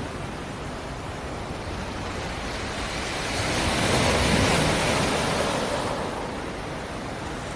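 Black Sea surf on the shore: a steady wash of waves, with one wave swelling and breaking about halfway through, then fading back.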